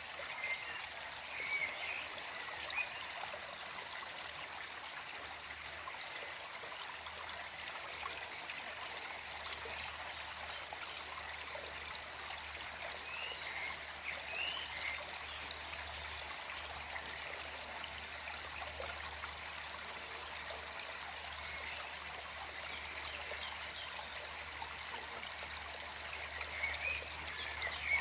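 Small forest stream flowing steadily, with birds giving short chirps a few times: briefly near the start, a few times in the middle, and again near the end.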